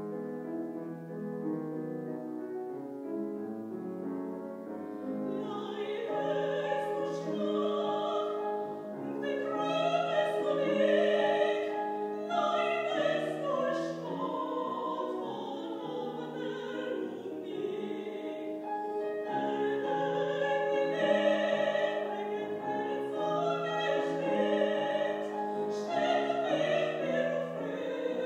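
A woman singing a classical art song in operatic style with vibrato, accompanied by piano. The piano plays alone at first, and the voice comes in about five seconds in.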